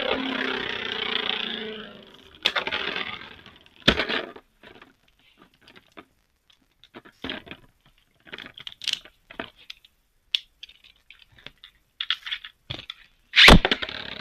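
Plastic and metal Beyblade Burst tops: a rough scraping spin for the first two seconds, then scattered clicks and clacks of the tops being handled. A sharp knock comes about four seconds in, and a louder one near the end.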